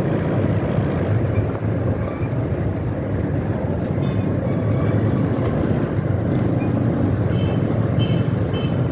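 Steady rumble of riding a motorbike through city streets: engine and road noise, with a few faint short high tones near the end.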